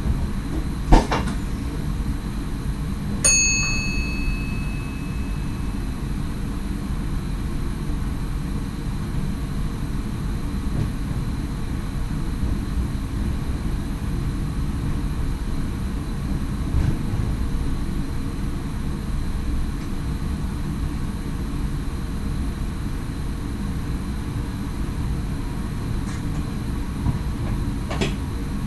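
Steady low running rumble of an NS SGM Sprinter electric multiple unit, heard inside the driver's cab. There is a sharp click about a second in, and about three seconds in a single bell-like ding that rings on and fades over a couple of seconds.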